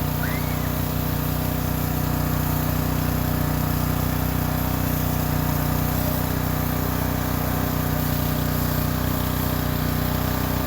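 Pressure washer running steadily at an even pitch, with the hiss of its high-pressure spray rinsing oven-cleaner foam off a car hood.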